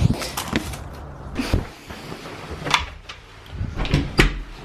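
Knocks and thumps of objects being handled and packed away in a van cab, about five sharp knocks, two of them close together near the end.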